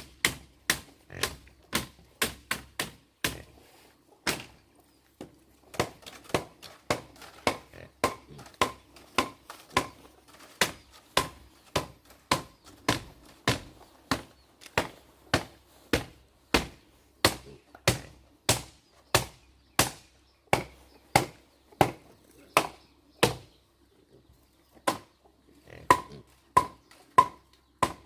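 A hand tool striking wood again and again in a steady rhythm, about one and a half sharp blows a second, some with a short ring. The work pauses briefly twice before it resumes.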